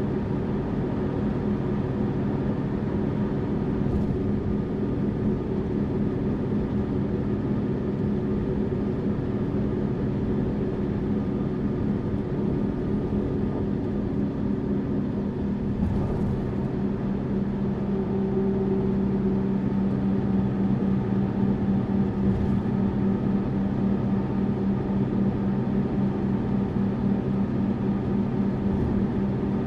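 Tourist bus engine running at a steady pace, with road and tyre noise, heard from inside the bus. Its hum holds a steady pitch and grows slightly louder in the second half, with a few faint clicks or knocks along the way.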